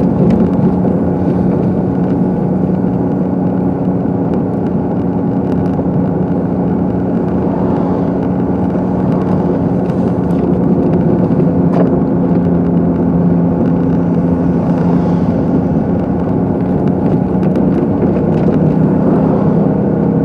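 Steady engine and road noise heard inside a moving car's cabin, with a constant low hum.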